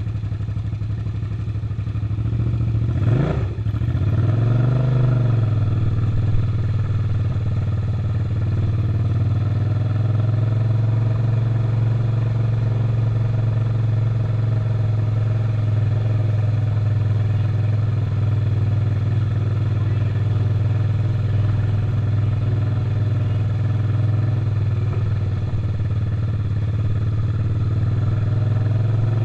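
Suzuki SV650 V-twin engine running under way, its note rising and falling briefly about three seconds in, then holding a steady drone.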